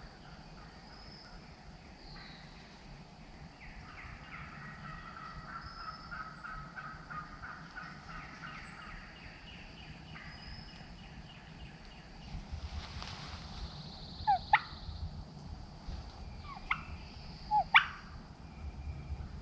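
Wild turkey gobbler gobbling at a distance, a rapid rattling call. Near the end, three short, sharp chirps are the loudest sounds.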